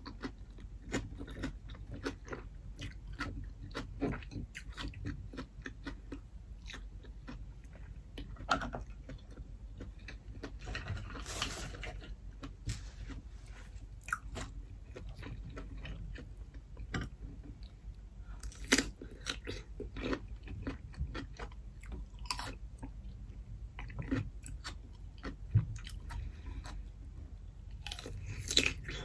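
A person eating: steady wet chewing and mouth smacks, with several sharp crunches standing out, the last ones from bites of raw cucumber near the end.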